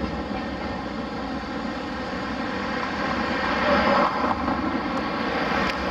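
Train running, a steady drone with a faint whine that grows a little louder about halfway through.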